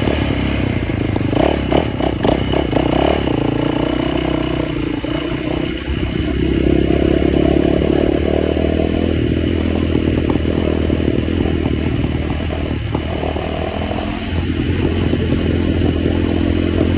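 Small motorbike engine running, with a rattle in the first few seconds. Its pitch rises about six seconds in as it is revved, drops off around fourteen seconds, then picks up again.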